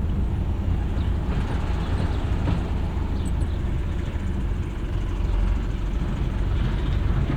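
Tow truck driving with a VW Kombi on its flatbed, heard from inside the Kombi: a steady low rumble of engine and road, with light rattling as the van shakes on the bed.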